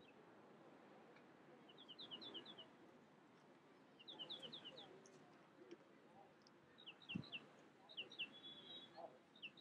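Faint bird calls: quick runs of four to six short chirps, repeated every couple of seconds, with one brief held note near the end. A soft low thump about seven seconds in.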